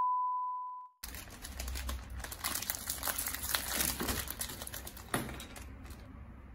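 A steady test-tone beep, the loudest sound here, fading and cutting off about a second in. Then a foil-lined biscuit wrapper crinkling and crackling as it is pulled open by hand, dying down near the end.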